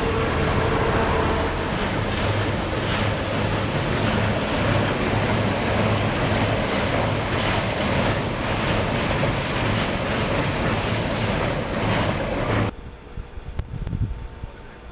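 Passing train, a loud, steady rumble and rush of air with a low hum, that cuts off suddenly near the end.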